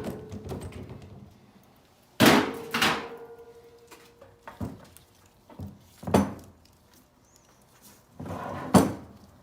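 Metal clanking from a furnace blower assembly being taken apart by hand: a loud clank about two seconds in that rings on briefly, then several lighter knocks and a scraping clatter near the end.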